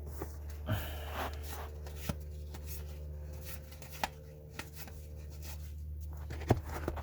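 Cardboard trading cards being handled and slid one behind another, with a soft swish about a second in and scattered light taps, the loudest near the end, over a steady low hum.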